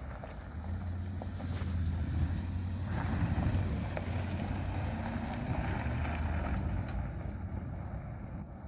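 An engine running with a low, steady hum that swells to its loudest about three seconds in and then fades, with wind buffeting the microphone.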